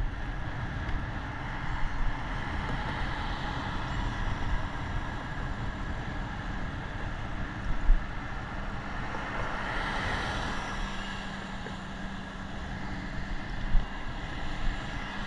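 Steady outdoor road-traffic and wind noise, swelling about ten seconds in as something passes.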